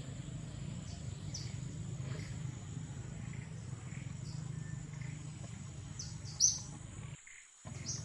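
Outdoor forest ambience: short, high bird chirps over a steady low hum and a thin, steady high-pitched insect tone, with the loudest chirp near the end. The sound drops out briefly near the end.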